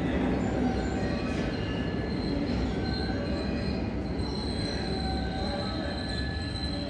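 Electric train moving through a station: a steady rumble with thin, high wheel squeal held over it.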